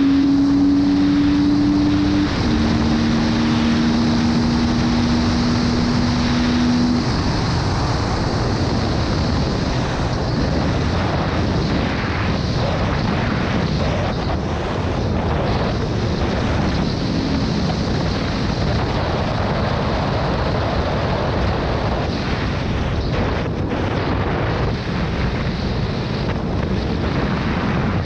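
2016 KTM 250 EXC-F's single-cylinder four-stroke engine running at a steady pitch while riding, dropping slightly in pitch about two seconds in. After about seven seconds a steady rush of wind on the microphone and riding noise covers the engine.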